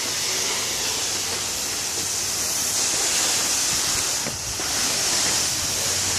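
Garden hose spraying water onto a car to rinse off the soap: a steady hiss of spray, with a brief dip a little past the middle.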